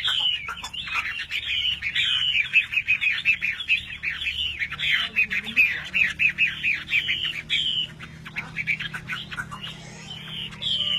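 Oriental magpie-robin (kacer) singing a rapid, varied run of chirps, whistles and harsh notes, nearly continuous, thinning out about eight seconds in before picking up again near the end.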